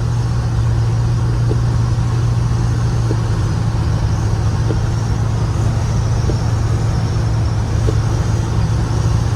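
Cab interior of a 1987 Chevrolet R10 pickup under way: a steady low engine drone with road noise, and a faint tick about every second and a half.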